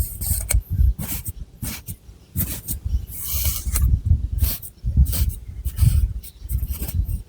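Long fingernails scratching through thick long hair on the scalp, in quick irregular strokes, each with a hissing rasp and a low rub.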